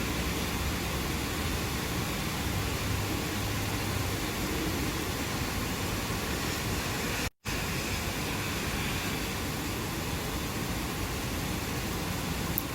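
Steady, even rain noise, broken by a brief cut to silence about seven seconds in.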